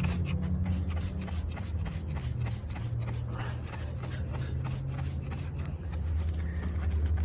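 Aerosol degreaser sprayed in many short, uneven hisses onto a greasy engine, over a low steady hum.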